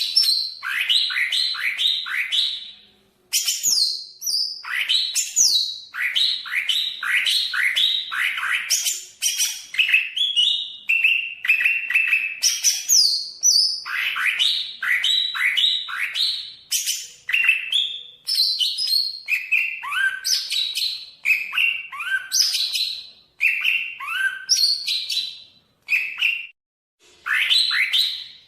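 Cucak ijo (green leafbird) of the Banyuwangi type singing a long, varied song of quick, downward-sweeping whistled notes strung into rapid runs, with brief pauses about three seconds in and near the end.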